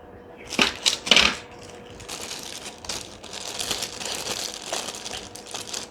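Small hard parts handled on a workbench: two sharp clinks about a second in, then rustling and light scraping with scattered small clicks.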